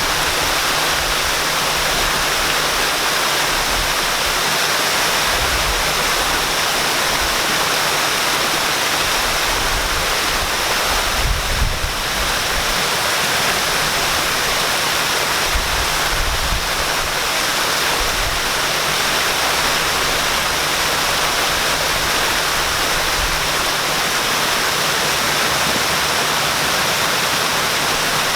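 Waterfall pouring: a steady, full rush of falling water, with a brief low rumble about twelve seconds in.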